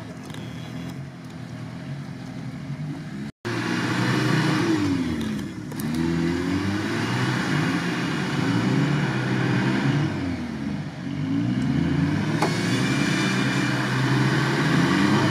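Suzuki Samurai's engine revving up and down again and again as the small 4x4 tries to drive forward out of a deep mud rut, wheels spinning, without enough traction even with the differential lock. The sound cuts out for an instant about three seconds in and is louder after.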